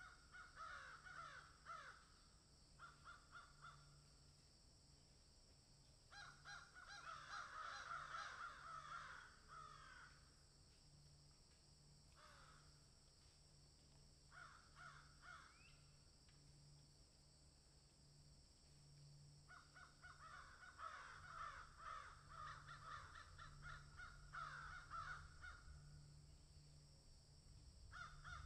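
Faint bird calls coming in bouts of one to several seconds with pauses between, over a low steady hum.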